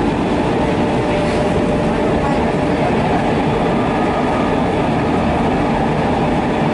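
JR Tokaido Line New Rapid Service electric train running on the rails, heard from inside its front cab: a steady, unbroken rumble of wheels and running gear.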